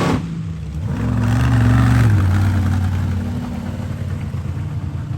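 Large monster truck engine revving up about a second in, then dropping back to steady running.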